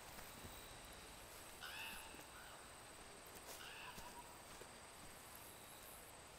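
Faint outdoor ambience over a low hiss, with a bird giving two short calls about two seconds apart.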